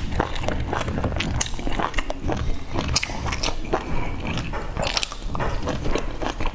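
Close-miked wet chewing and mouth sounds of a person eating a soft steamed dumpling dipped in chili sauce, with many small sticky clicks in quick succession.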